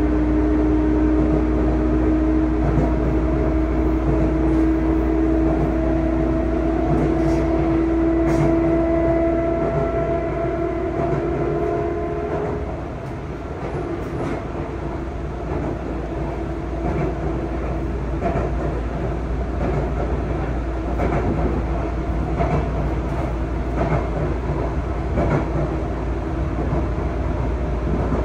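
Sotetsu 9000-series train with Hitachi IGBT-VVVF drive, heard from inside the car while running: a steady motor and inverter whine under power cuts out about twelve seconds in as the power is shut off. The rumble of wheels on rail and occasional rail-joint clicks remain.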